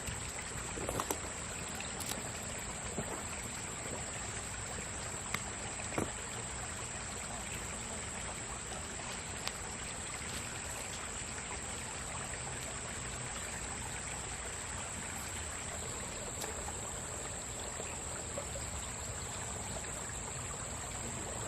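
Small stream flowing and trickling steadily, with a few faint short clicks.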